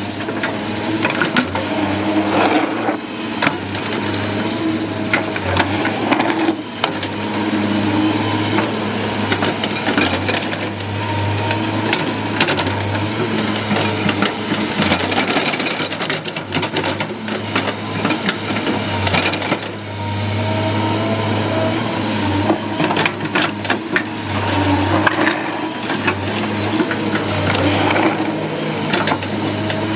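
Excavator's diesel engine running steadily, with frequent knocks and clatter throughout.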